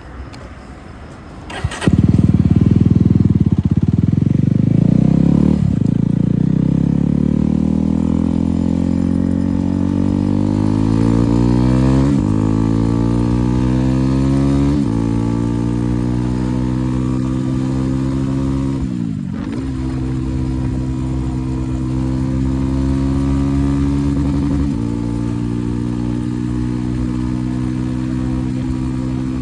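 Yezdi Roadster single-cylinder motorcycle engine through an aftermarket Akrapovic exhaust, starting up loudly about two seconds in, then accelerating through the gears. Its pitch rises and drops back at each of three upshifts, dips briefly, and then settles into a steadier cruising note.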